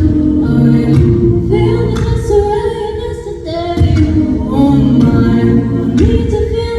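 A cappella vocal group singing in several-part harmony without instruments.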